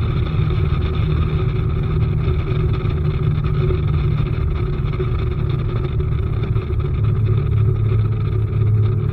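Outboard motor on a bass boat running steadily, with a loud low drone; the low tone grows stronger about seven seconds in.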